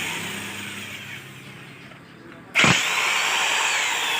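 A power tool's motor, whining and fading as it winds down. About two and a half seconds in it is triggered again with a sudden loud burst: the whine climbs briefly, then slowly falls as the motor spins down.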